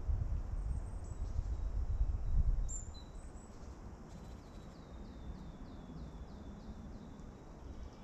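Small songbird calling in the spring forest: a few thin high chirps in the first three seconds, then a quick run of about seven short, falling notes at roughly three a second. Low rumbling thuds underneath during the first two seconds or so, then they die down.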